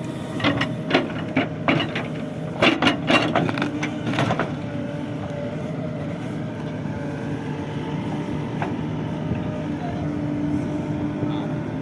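Heavy diesel machinery running steadily at a low, even pitch, with a run of sharp knocks and clatters in the first four seconds or so.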